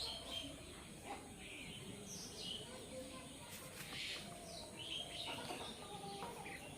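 Small birds chirping in short, scattered calls.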